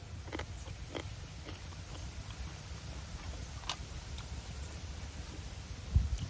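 Close-miked chewing of a mouthful of seafood salad (octopus, squid and cuttlefish), with a few scattered clicks over a steady low rumble. A single low thump comes near the end.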